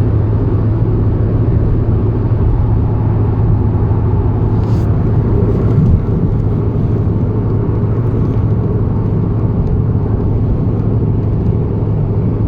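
Steady engine and road noise of a moving car heard from inside the cabin: a low drone with tyre rumble, and a short thump about six seconds in.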